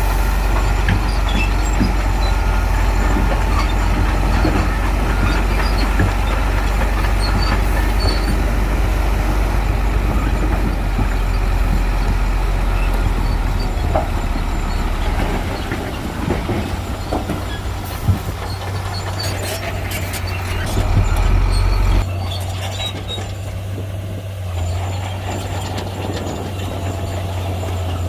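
Heavy Shantui bulldozer's diesel engine running steadily with a deep rumble while working soil. The low rumble eases about halfway through, there is a single sharp knock a few seconds later, and the sound thins out abruptly near the end.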